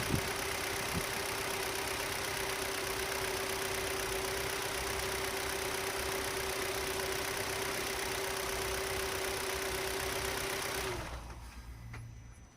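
A machine running steadily with a constant hum and a wide hiss, which winds down and stops about eleven seconds in.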